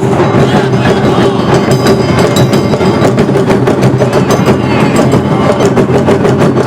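Awa odori festival band playing: drums and small hand gongs struck in a dense, driving, steady rhythm over a held tone.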